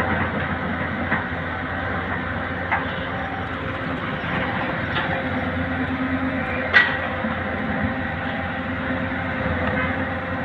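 Heavy diesel engine of an excavator running steadily, with a few sharp knocks, the loudest about two-thirds of the way through.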